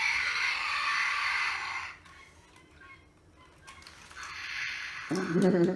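Eclectus parrot giving harsh, raspy squawks: a long one of about two seconds at the start, then after a pause a second, weaker one.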